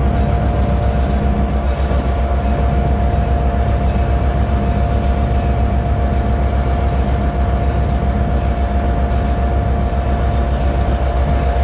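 Train locomotive running at the crossing: a deep, even engine throb with a steady high tone held throughout.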